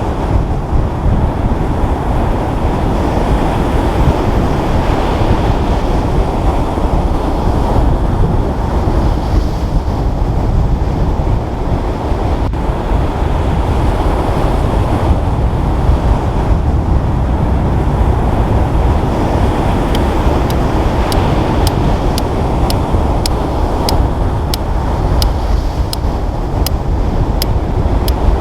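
Steady, loud rush of wind and water, heaviest in the low range. Over the last eight seconds, a run of sharp ticks, about two a second, sits on top of it.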